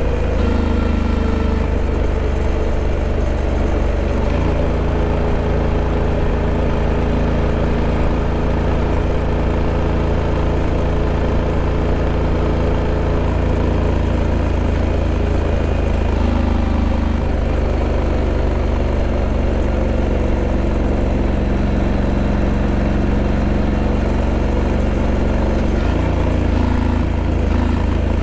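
Honda Africa Twin 1100's parallel-twin engine running steadily, its note stepping slightly about four seconds in and again near the end.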